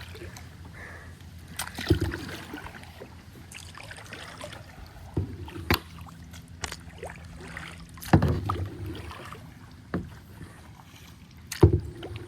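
Kayak paddling: paddle strokes through the water, with a sharp knock every few seconds as the paddle strikes the side of the plastic kayak.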